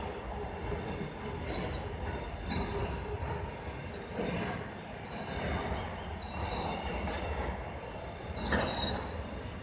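Container freight wagons rolling past on the rails, a steady rumble and rattle of steel wheels with a few short high squeaks, and a louder knock near the end.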